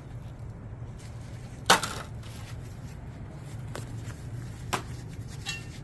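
Hands digging through soil to pull out sweet potatoes, with a few sharp crunches, the loudest about a second and a half in, over a steady low hum.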